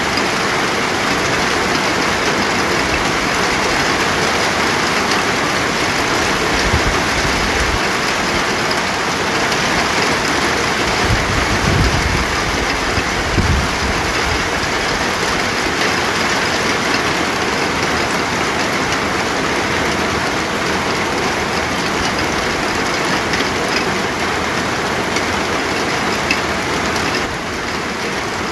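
Steady heavy rain: an even, continuous hiss of falling rain, with a few brief low rumbles near the middle.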